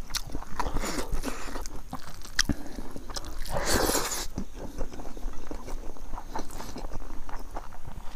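A person chewing a mouthful of rice and pickle eaten by hand, close to a clip-on microphone, with wet mouth clicks and lip smacks scattered through. There is a short hissing rush about three and a half seconds in.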